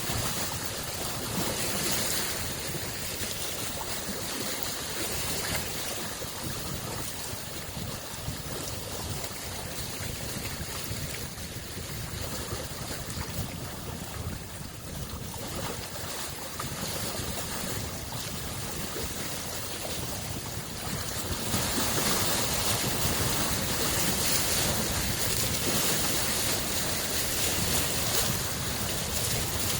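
Small waves lapping and breaking on a lakeshore in a continuous wash, with surges that swell now and then; the wash grows a little louder about two-thirds of the way through.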